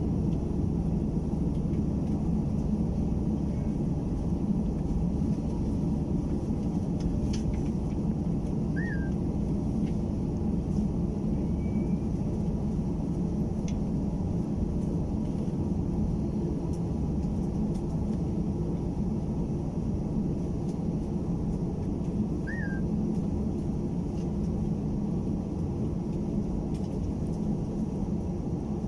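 Steady low rumble and hum inside the passenger cabin of an Airbus A320-216 on the ground, its CFM56 engines at idle before the takeoff roll. Two faint short squeaks sound, about 9 seconds in and again about 22 seconds in.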